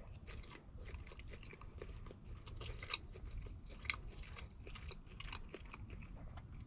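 A person chewing a mouthful of ham steak: faint wet clicks throughout, with a couple of sharper clicks about three and four seconds in.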